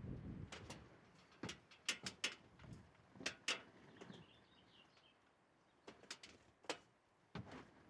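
A run of sharp, irregular clicks and knocks, some in quick pairs, with a few faint high chirps about halfway through.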